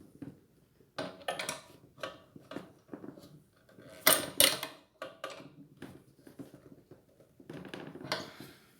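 Irregular clinks, clicks and knocks of hard parts and tools being handled while a ceiling fan is assembled, with two sharp clacks about four seconds in.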